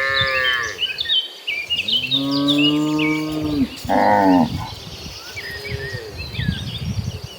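Cattle mooing: a call carrying on into the first second, a long, lower moo about two seconds in, and a short moo about four seconds in. Small birds chirp in the background.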